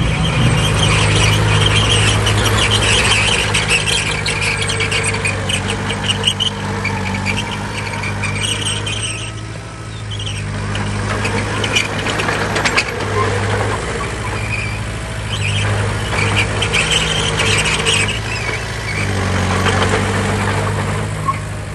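Heavy diesel earthmoving machinery running steadily, with loud high-pitched metal squealing that comes and goes in several spells over the engine.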